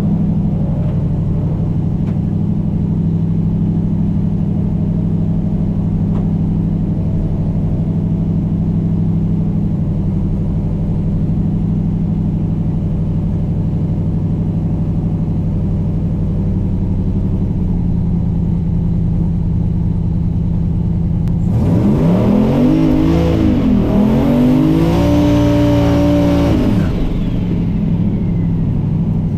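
Turbocharged LS V8 idling steadily while warming up, then revved up and back down twice near the end.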